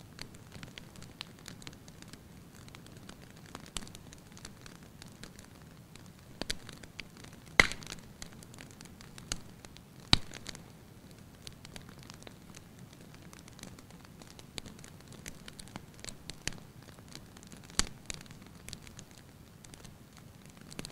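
Wood fire crackling in a fireplace: a steady run of small crackles with a few sharper pops, the loudest about seven and a half and ten seconds in, over a low steady rumble.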